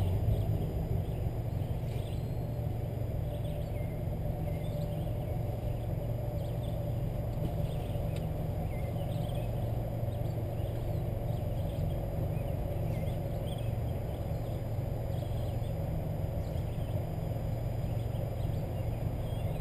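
Car engine idling steadily as a low hum, heard through the windshield from inside the cabin while the car stands still, with faint short bird chirps scattered through it.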